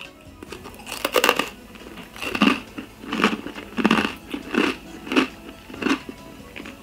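A person chewing a crisp, sugared butter rusk: a steady run of about eight dry crunches, roughly one every two-thirds of a second.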